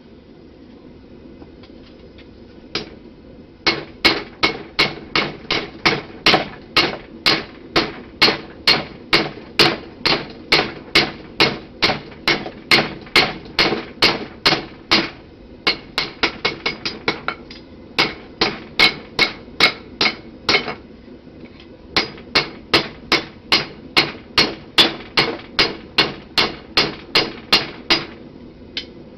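Blacksmith's hammer striking hot steel on an anvil, forging the bevels of a knife blade. The hammering is in runs of about two ringing blows a second, with a brief quicker flurry of lighter taps in the middle and short pauses between the runs.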